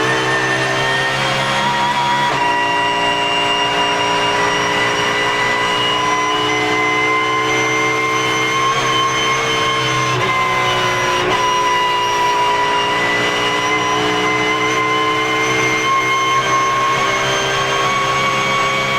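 Porsche GT3 Cup race car at speed: the flat-six engine and the whine of its straight-cut gearbox, the pitch climbing slowly and steadily as speed builds, with a brief dip about two seconds in and twice more around the middle.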